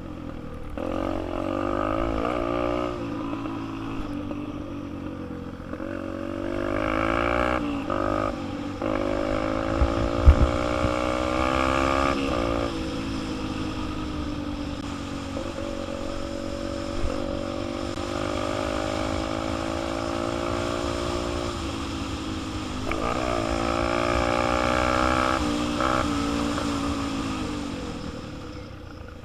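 Dirt bike engine running while being ridden. Its pitch climbs as the rider accelerates and falls back as the throttle is eased, several times over. About ten seconds in there is a short, sharp knock, the loudest moment.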